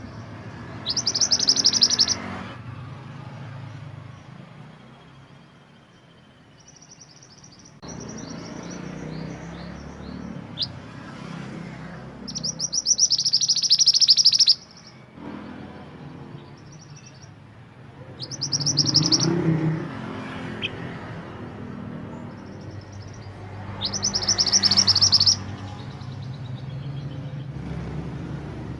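Mantenan gunung songbird singing in four loud, rapid, high-pitched bursts of song of a second or two each, with softer notes between them, over a low background rumble.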